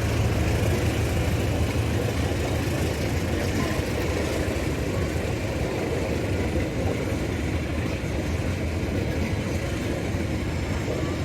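Steady low engine rumble with a constant hum, easing off slightly over the first few seconds.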